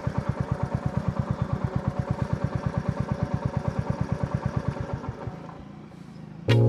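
Royal Enfield Meteor 350's single-cylinder engine idling with an even thump of about eight to ten exhaust beats a second, then switched off a little after five seconds in, as the bike is parked.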